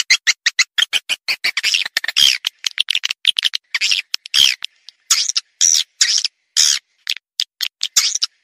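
Swiftlet calls played as a lure sound for a swiftlet house. Rapid, dense twittering chirps and clicks run on without a break, broken by a few longer buzzy calls.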